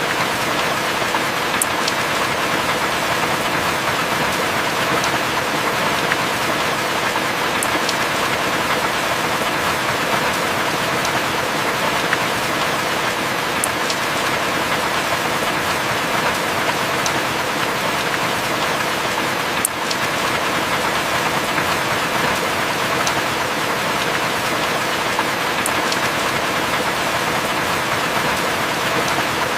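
Heavy rain falling steadily, with a few sharp drop ticks here and there.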